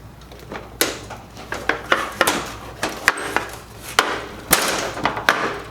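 Knocks and clunks of a Star two-sided sandwich grill, a metal countertop unit, being turned over onto its feet on a work surface. A string of separate knocks over several seconds, with a longer rough scraping noise about four and a half seconds in.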